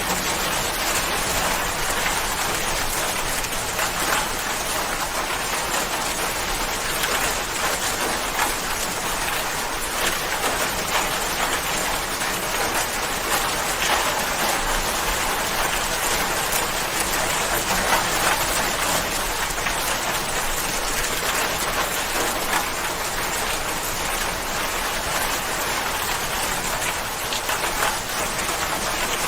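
Steady, even rain falling, a dense patter of drops on a surface.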